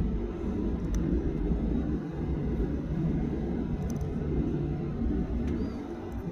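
Steady low rumble of a Boeing 737-800's engines and airframe heard inside the passenger cabin, with a few faint clicks.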